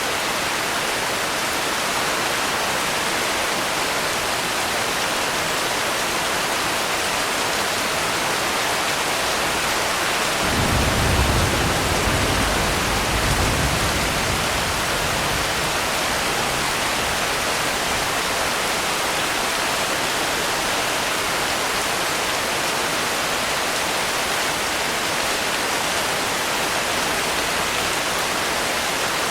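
Steady rain hissing. About ten seconds in, a low rumble of thunder starts suddenly and dies away over about five seconds.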